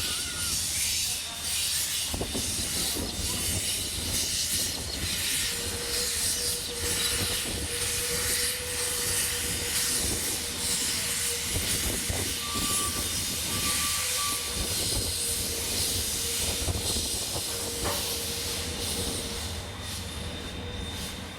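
Steam locomotive hissing steam steadily over a low rumble.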